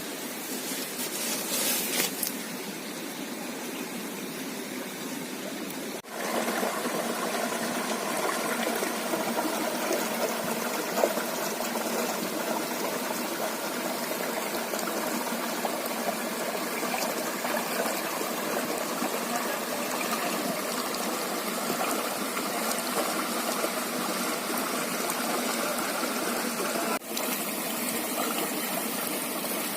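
River water flowing steadily. The sound dips sharply for a moment twice, about six seconds in and near the end.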